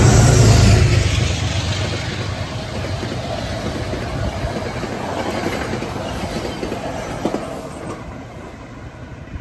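Metro-North GE P32AC-DM locomotive passing at speed. It is loudest in the first second as it goes by, then the passenger coaches roll past with their wheels rumbling on the rails. The sound fades near the end.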